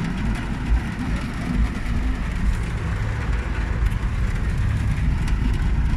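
A car driving along: steady engine and road noise with a deep rumble.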